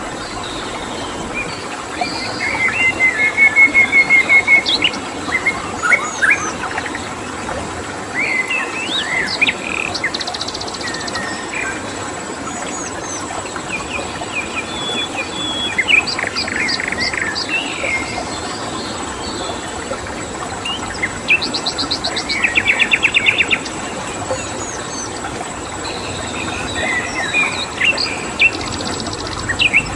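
Several songbirds chirping and singing, with rapid trills about 3 seconds in, around 10 seconds and around 22 seconds, over a steady hiss of running water and a constant high-pitched cricket tone.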